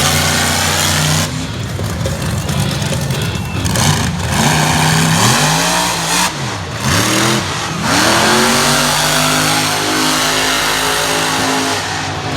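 Monster truck engine revving hard, held high, then blipped up and down a few times about halfway through, then held at high revs again.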